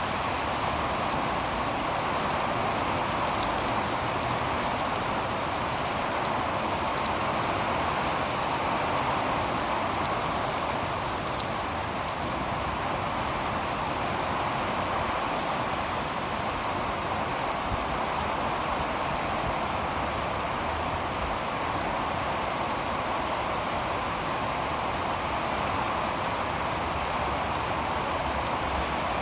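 Heavy rain falling steadily on wet asphalt pavement, a dense, even patter of drops splashing into standing water.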